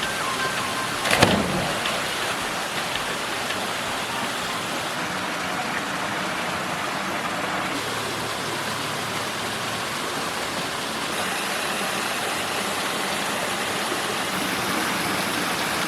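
Steady rushing of river water and a waterfall, with one sharp knock about a second in.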